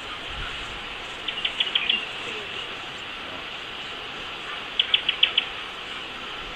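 A bird calling twice, each call a quick run of five or six short high notes, about three and a half seconds apart, over a steady high hiss.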